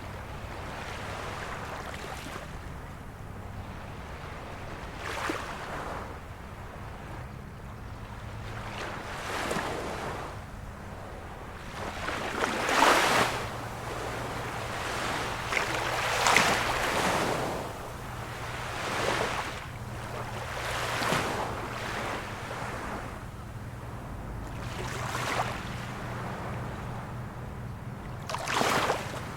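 Small waves of a calm sea washing in, each one a rising and falling rush of water every three to four seconds, loudest about halfway through. A faint steady low hum runs underneath.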